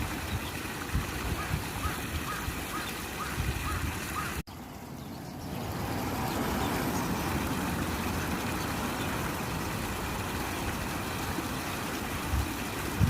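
Steady babbling of water in a shrine pond, with gusts of wind rumbling on the microphone. The sound cuts out abruptly about four seconds in and comes back within a second.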